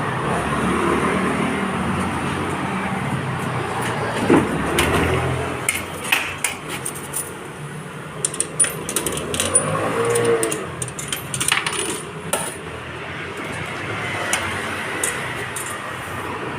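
A steady mechanical rumble, with a run of sharp metallic clinks and clicks through the middle of the stretch.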